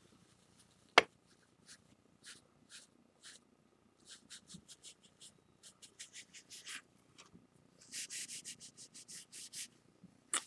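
Short scratchy strokes of a tissue rubbing a black spot off the edge of a ceramic plate, spaced out at first and quickening near the end. A sharp click about a second in is the loudest sound.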